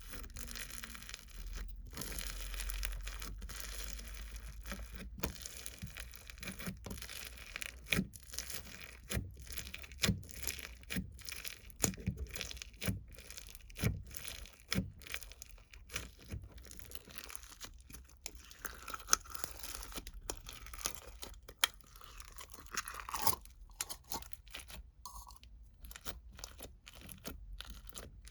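Close-up, irregular crunching and crackling, with many sharp clicks a few per second.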